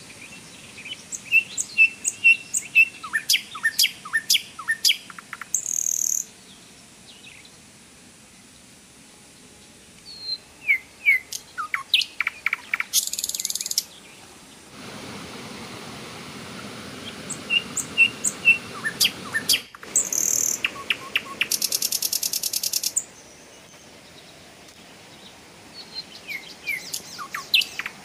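Songbirds singing: repeated phrases of quick chirps and whistles, each ending in a rapid rattling trill, coming back about every seven or eight seconds.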